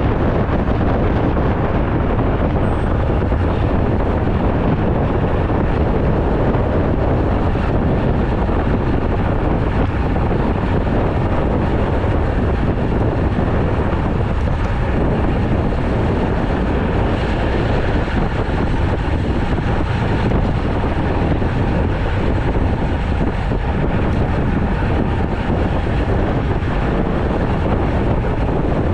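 Steady wind rush buffeting the microphone of a road bicycle in motion, a continuous low rumbling noise that holds at an even level.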